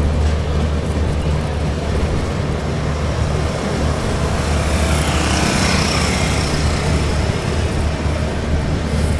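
Express train running at speed, a steady low rumble with a rushing hiss that swells and fades about five seconds in.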